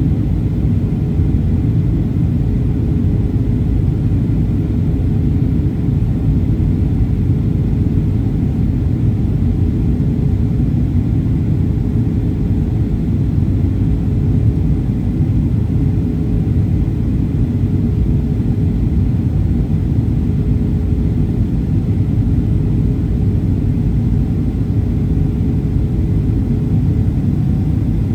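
Boeing 737-800 cabin noise on approach: a loud, steady low rumble of the CFM56 engines and airflow. A steady droning tone rides above the rumble and fades out near the end.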